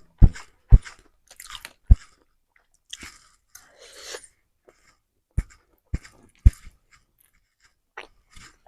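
Close-miked chewing of fried noodles with rice, moist chews about two a second, pausing for a couple of seconds in the middle before it resumes.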